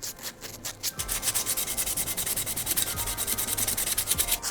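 Hand sanding small metal engine brackets with 240-grit sandpaper: quick, rhythmic back-and-forth rubbing strokes, growing louder about a second in and stopping near the end.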